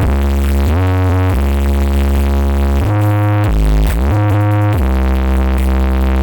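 Electronic dance music blasted through a huge 'sound horeg' carnival sound system, dominated by deep sustained bass notes that slide and step between pitches about once a second.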